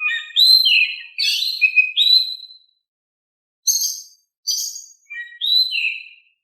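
Oriental magpie-robin (kacer) singing: clear whistled notes mixed with harsh, scratchy high notes. A run of phrases is followed by a pause of about a second, then two short scratchy notes and a final whistled phrase.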